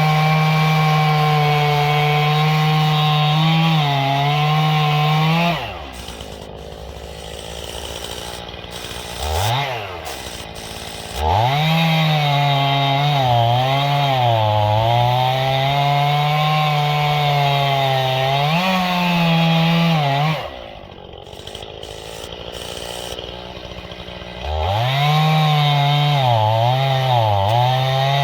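Stihl chainsaw cutting through a dead ash log at full throttle, its pitch dipping and wavering under load. Twice it drops to idle for several seconds between cuts, with a short rev during the first pause.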